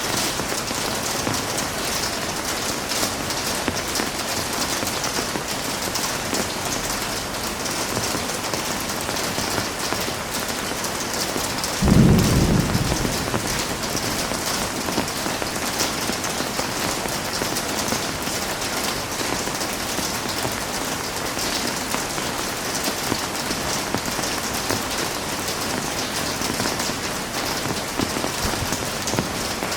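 Heavy rain falling in a steady, even hiss, with one short, low clap of thunder about twelve seconds in that dies away within a second or two.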